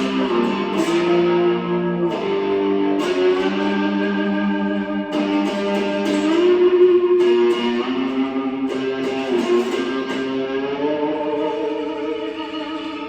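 Electric cigar box guitar played with a slide through an amplifier: sustained notes plucked about once a second, several of them gliding up in pitch.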